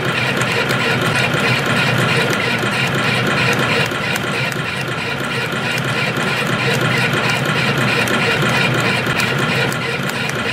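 CNC spring coiling machine running steadily, coiling fine 0.2 mm wire into compression springs: a steady mechanical running noise with a fast, regular clicking from its repeating cycle.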